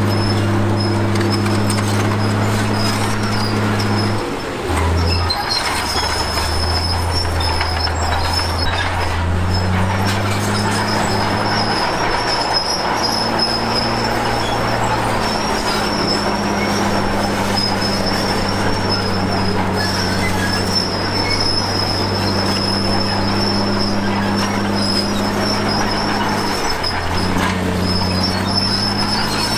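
Komatsu D53P crawler bulldozer's diesel engine working under load, its note dipping about four seconds in and shifting several times, with a steady high squeal from the steel tracks.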